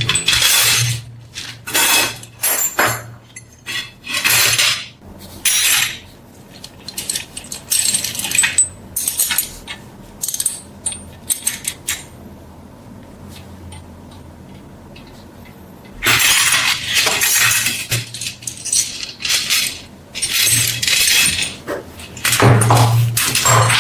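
Steel knife blade being worked by hand: irregular scraping strokes with metallic clinks, stopping for a few seconds in the middle.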